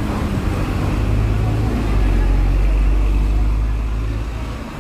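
Low, steady rumble of road traffic or a large vehicle's engine, swelling about two seconds in and easing off near the end.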